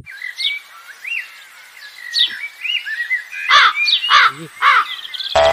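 Birds chirping and calling outdoors: short rising and falling chirps throughout, with a few louder, sweeping calls in the second half.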